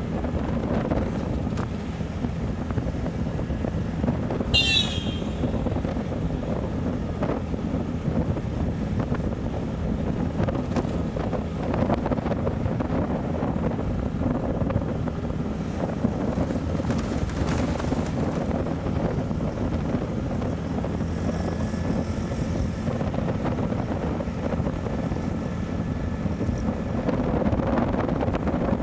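Motorcycle engine running steadily while riding, with wind rushing over the microphone. A brief high, falling chirp about five seconds in.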